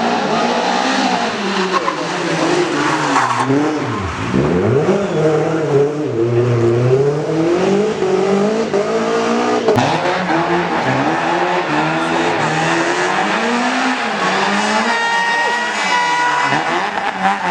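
Rally car engine revving hard at full throttle, its pitch climbing and dropping over and over through gear changes and lifts, with a sharp lift and low dip about four seconds in. A steady high tone joins near the end.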